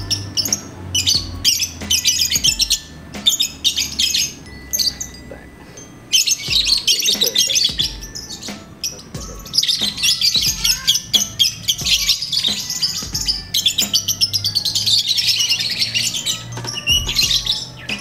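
Caged lovebird singing in long runs of rapid, high chattering trills, several seconds each, with short breaks between.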